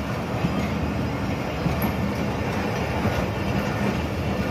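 Passenger coaches of a departing express train rolling past on the rails: a steady rumble of wheels on track with a few faint clicks.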